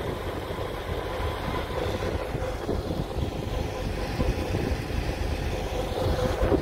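Train passing on the rails, a steady loud rumble with irregular clatter and a faint steady hum.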